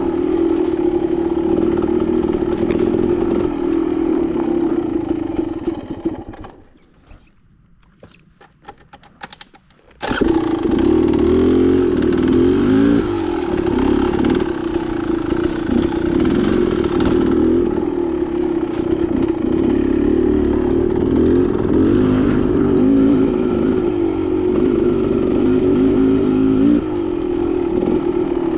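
Dirt bike engine running along a trail under steady throttle. About six seconds in it fades away to a few seconds of quiet with faint clicks, then comes back abruptly about ten seconds in and runs on steadily.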